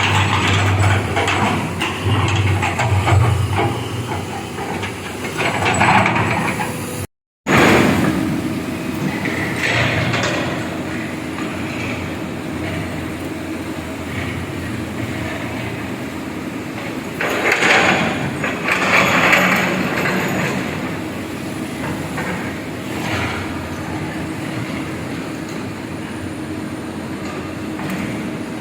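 Backhoe excavator's diesel engine running under load while digging, with intermittent clanks and scraping surges. The sound drops out completely for a moment about seven seconds in.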